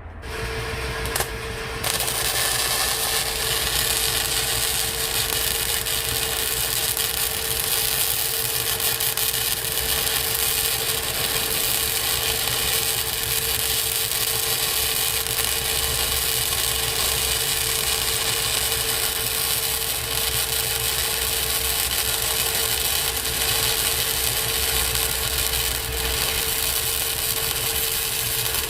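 Electric arc welding a long continuous bead on steel flat bar: a steady crackling hiss with a constant hum, starting about two seconds in and holding evenly.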